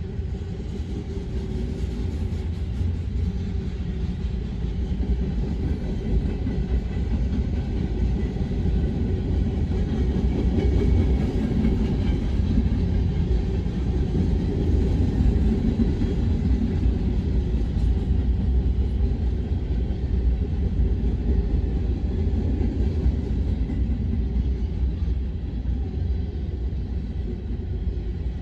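Manifest freight train's cars rolling past close by: a steady rumble of steel wheels on the rails, swelling slightly in the middle.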